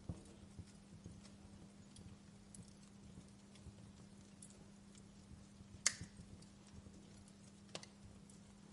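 Fire in a fireplace crackling faintly: scattered sharp pops and snaps, the loudest about six seconds in, over a faint steady low hum.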